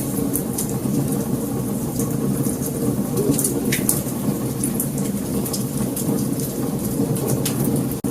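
Wood fire burning, with scattered sharp crackles and pops over a steady low rumble of the flames. The sound drops out for an instant near the end.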